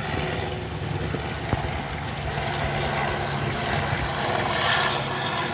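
Firefighting aircraft flying over a forest fire, a steady propeller-engine drone that grows a little louder near the end.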